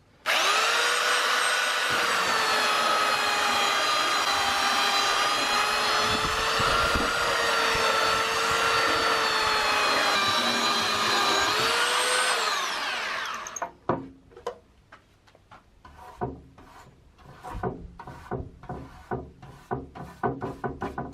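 An electric power sander starts up, runs steadily on raw wood planks for about twelve seconds, then winds down and stops. A run of irregular sharp clicks and knocks follows.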